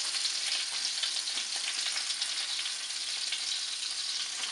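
Ground-beef meatballs sizzling steadily in hot olive oil in a frying pan as they brown on the outside.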